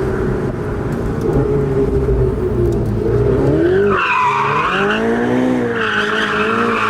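A supercar engine being driven hard. About four seconds in, its note sweeps up and down as it revs, with a hissy screech that fits tyre squeal over it.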